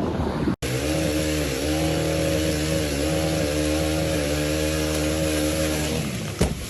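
An engine running at a steady speed, its pitch wavering slightly. It starts abruptly about half a second in and fades out near the end.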